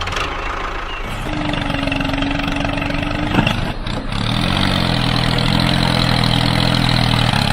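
Vehicle engine running with a steady rumble. About four seconds in it revs up, its pitch rising and then holding steady.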